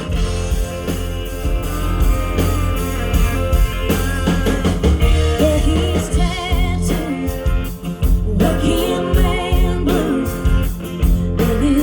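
Live country band playing between sung lines of a song: a steady drum and bass beat with guitar and a wavering lead melody over it.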